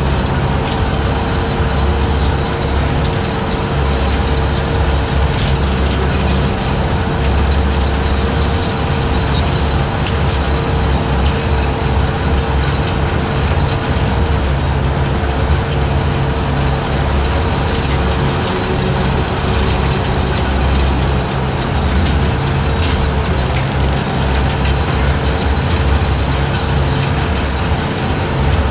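Skid steer engine running steadily at high speed, driving a 72-inch hydraulic brush cutter through long grass, with a steady whine over the engine's low drone.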